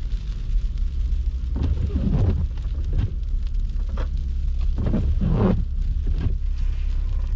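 Car driving through snow, heard from inside: a steady low road and engine rumble, with a rasping sweep about every three seconds.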